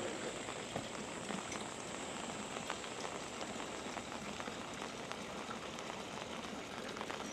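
Steady monsoon rain falling, a continuous hiss dotted with many small drop taps.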